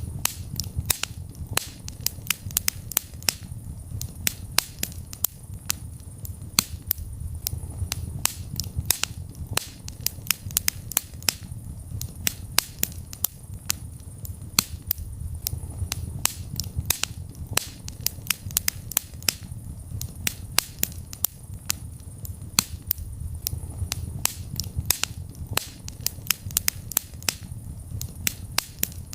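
Wood fire crackling in a fireplace: frequent sharp pops and snaps, several a second at irregular intervals, over a low steady rumble of burning.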